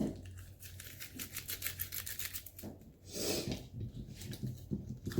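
Close handling noise from scrunched packing tape and packaging: a run of small crackles and rubs, with a longer rustle about three seconds in, over a low steady hum.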